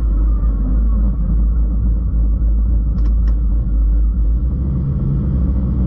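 Turbocharged LS V8 engine of a drag-raced Holden Commodore running steadily at light throttle, heard inside the cabin as a deep, even rumble with no revving up. Two sharp clicks sound about three seconds in.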